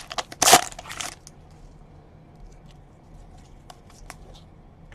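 Foil wrapper of a baseball card pack crinkling loudly for about the first second, then faint ticks of cards being handled.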